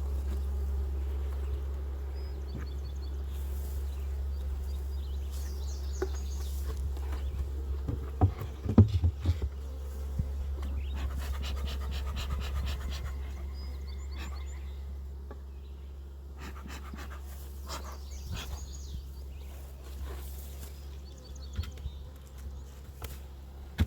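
Honeybees buzzing close by, with a person breathing hard and a few knocks and rustles of handling.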